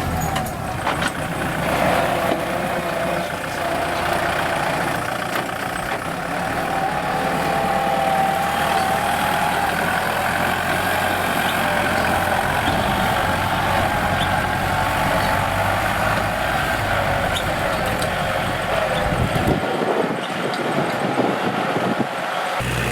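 Kubota L4708SP tractor's diesel engine running steadily while ploughing, its pitch wavering slightly.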